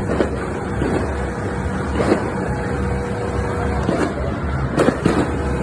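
New Year's fireworks and firecrackers going off all around: a dense, continuous low rumble of distant bangs, with a few sharper cracks about two seconds in and near the end.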